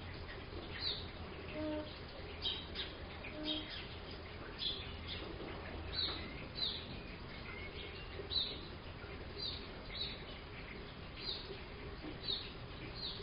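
Steady rain falling on a roof, with a bird chirping over it: short, high, falling chirps about once a second.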